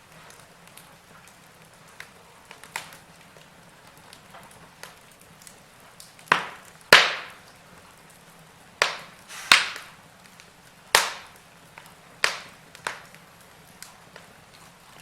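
Logs burning in a fireplace, crackling with sharp pops over a soft hiss. The pops are few and small at first, then loud ones come thick from about halfway through.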